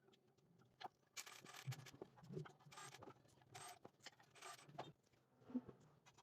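Faint scraping or rubbing strokes, about four of them between one and five seconds in, with a few light clicks and taps.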